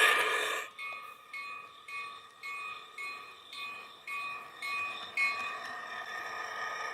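A model locomotive's onboard sound system plays a bell ringing about twice a second, nine strikes, after a loud noisy blast dies away in the first half second. A steady tone carries on after the last strike.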